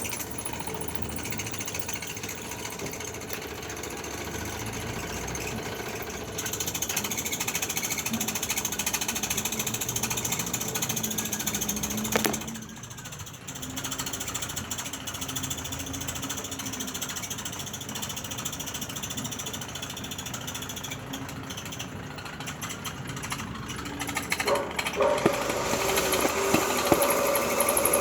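Electric arc welding on foundation bolts: a steady fine crackle that stops briefly about halfway and then starts again. Near the end a steady machine hum comes in and the sound gets louder.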